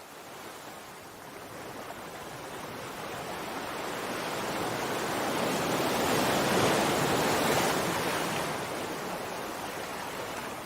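Sea waves: the wash of surf builds slowly to one broad surge about two-thirds of the way through, then draws back and fades.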